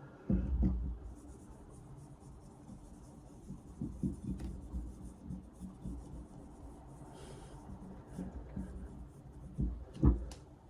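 Metal polish being rubbed onto a rusty carbon-steel blade, a faint scratchy rubbing, with a low knock just after the start and another near the end.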